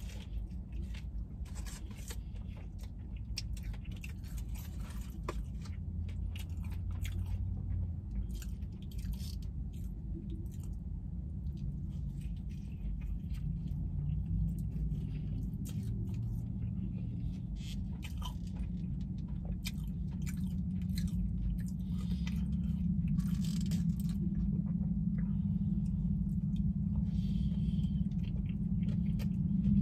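Close chewing and biting of a crispy fried chicken sandwich: a long run of irregular crunchy crackles and mouth sounds over a steady low hum.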